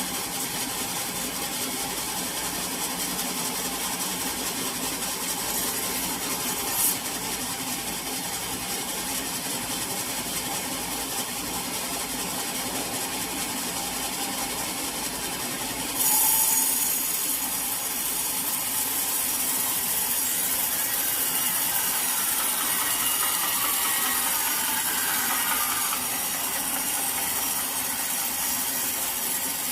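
Sawmill saw running and cutting through a teak log, a steady mechanical hiss that grows louder and brighter about halfway through, as the blade bites into the wood.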